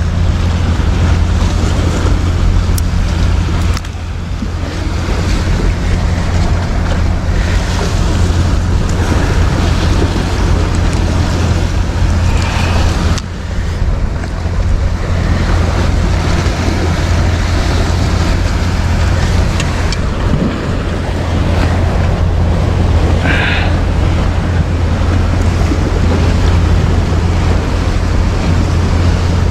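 A fishing boat's engine drones low and steady while the boat is under way, with wind buffeting the microphone and water rushing past.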